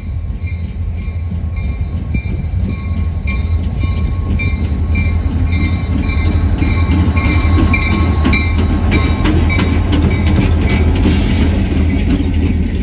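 A train passing on the tracks: a steady low rumble with the regular clickety-clack of wheels over rail joints, growing louder in the second half.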